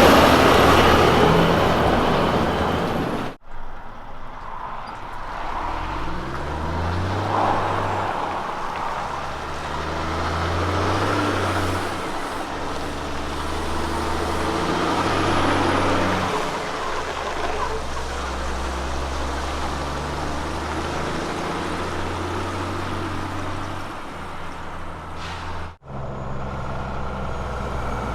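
Heavy diesel road-train truck engine under load, its pitch climbing and stepping through gear changes as it pulls away, with road noise. The sound breaks off abruptly twice, about three seconds in and near the end.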